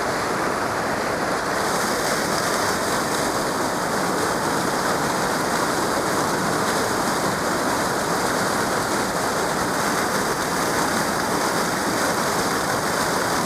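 Glacial meltwater river and waterfall rushing: a loud, steady, unbroken water noise.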